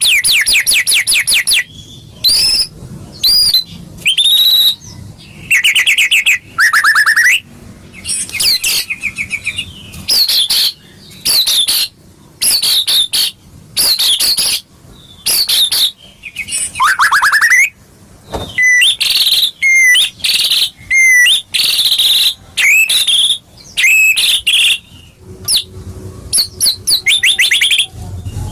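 White-rumped shama (murai batu) singing loudly in a rapid run of short, varied phrases: fast rattling trills, whistled notes that sweep up and down, and sharp chips, with brief gaps between phrases.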